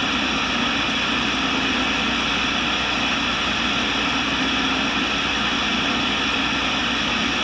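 Tool and cutter grinder running steadily, its motor and spinning wheel giving an even hum and hiss with no cutting or strikes.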